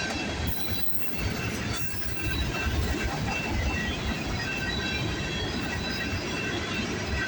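Freight cars of a long Union Pacific manifest train rolling past on the rails, a steady rush of steel wheels with short high-pitched squeals coming and going.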